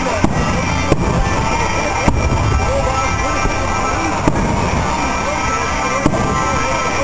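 Aerial fireworks shells bursting: five sharp bangs spread a second or two apart, over continuous music.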